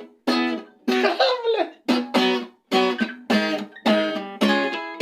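Acoustic guitar strumming chords, about two strikes a second, each ringing and dying away before the next. About a second in there is a short falling glide.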